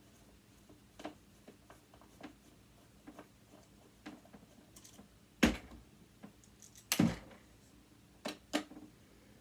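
Small metal parts and tools clicking and tapping while a sewing machine motor is taken apart: scattered light clicks, with two louder knocks past the middle.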